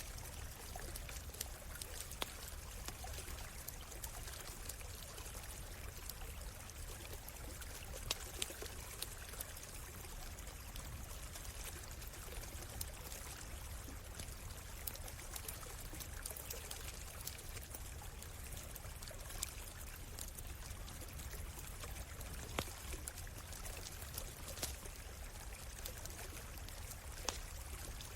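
A stream flowing and trickling steadily, with a campfire's sharp crackles and pops scattered irregularly over it.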